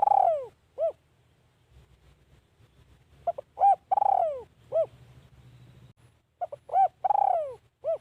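Spotted dove cooing, a decoy bird's call: two full phrases and the end of a third, each a few short coos, a longer coo that falls in pitch, then a short closing coo.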